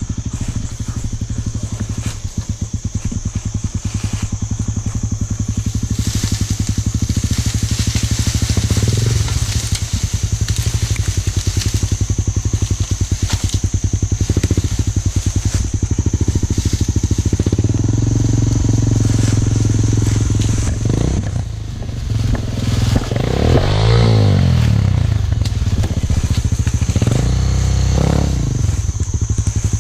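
Dirt bike engine running at low revs down a hill, mostly steady on engine braking, with the throttle blipped so the pitch rises and falls a few times near the end.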